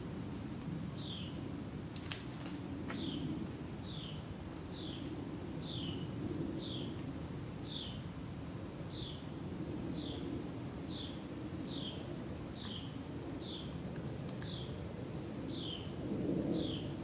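A small bird repeating a short, falling call note about once a second, over a steady low rumble, with a couple of faint clicks about two and three seconds in.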